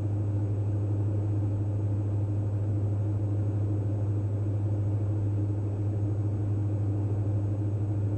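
Steady cockpit drone of a Diamond DA42 NG's twin engines in cruise, a low even hum with no change in pitch.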